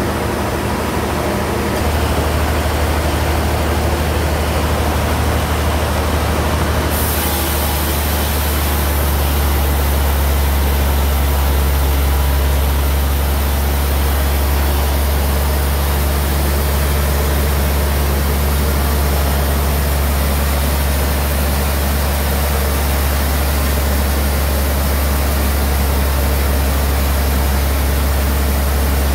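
Sawmill bandsaw running steadily with a heavy low hum and a broad mechanical hiss; the hiss gets brighter about seven seconds in.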